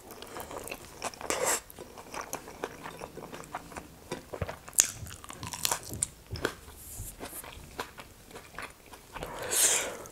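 Close-miked eating of rice, nettle dal and greens by hand: wet chewing, mouth clicks and lip smacks, with a louder noisy rush near the end.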